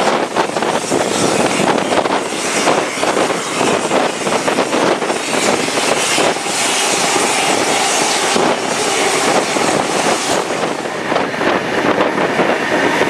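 Train running at speed: a steady, loud roar of wheels on rail and rushing air.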